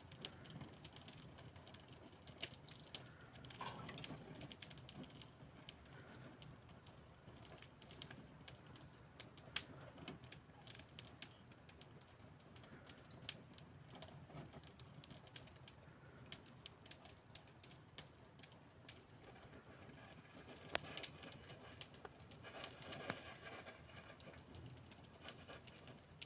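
Wood fire crackling faintly, with irregular small clicks and pops and a few louder snaps.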